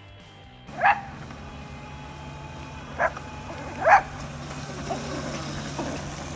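A small dog, a chihuahua, barking three times, sharply, about a second in and again around three and four seconds, with a few fainter yips after. A steady low hum runs underneath.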